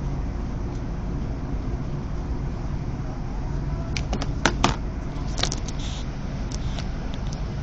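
CRH6F electric multiple unit running: a steady low rumble with a hum, broken by a few sharp clicks about four and a half seconds in.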